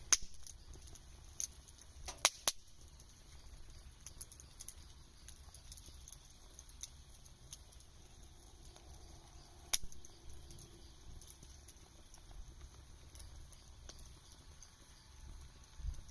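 Wood campfire crackling, with irregular sharp pops; the loudest come twice a couple of seconds in and once near the middle.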